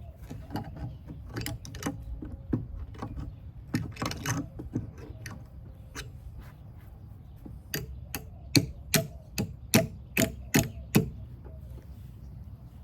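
Hammer driving a nail into a hard wooden roost board: scattered light knocks and taps, then a run of about nine sharp hammer strikes, two or three a second, beginning about eight seconds in.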